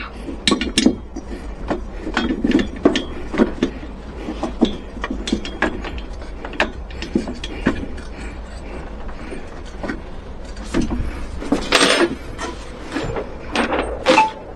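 Irregular clicks and knocks of hand tools and small hardware being handled, a little louder and busier near the end.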